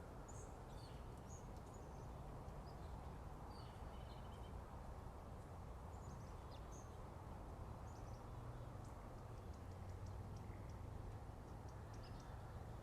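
Wild birds calling faintly in short, scattered chirps, with a quick run of ticking notes in the second half, over a steady low background rumble.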